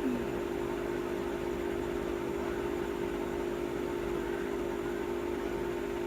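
Aquarium pump running with a steady, unchanging hum.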